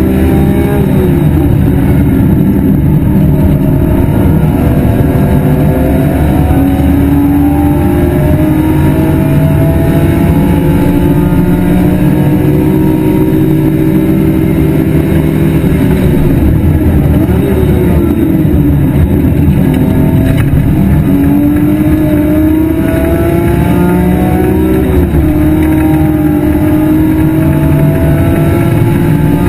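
BMW E46 M3's S54 straight-six running hard at race pace. Its pitch climbs slowly and drops sharply several times as the car shifts and changes speed.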